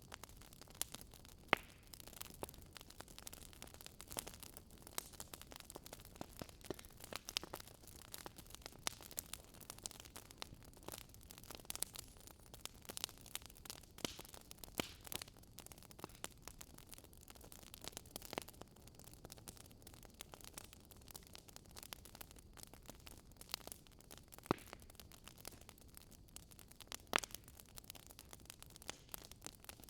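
Wood fire crackling, a soft steady hiss broken by many sharp irregular pops and snaps, a few louder than the rest.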